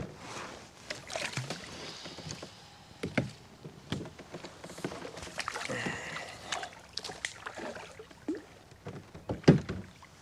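Kayak paddling and handling: water splashing and dripping, with scattered knocks against the plastic hull. The sharpest knock comes near the end.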